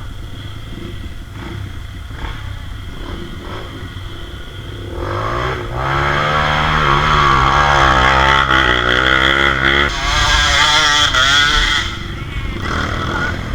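Off-road trail motorcycle engine revving hard. It runs low at first, then about five seconds in it goes loud with the pitch rising and falling under the throttle. A second hard burst of revs comes near the end, then it drops back.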